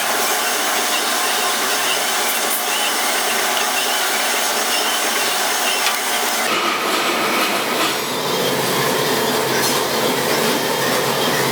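A workshop power tool running steadily under load, its sound shifting lower and rougher about six and a half seconds in.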